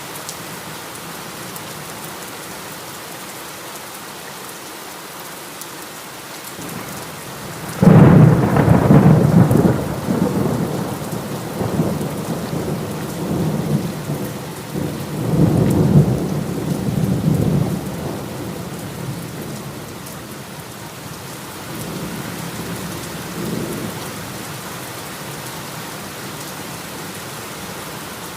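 Steady heavy rain with a clap of thunder that breaks out suddenly about a third of the way in. It rolls on in several waves of low rumbling for about ten seconds and fades, with one smaller rumble near the end.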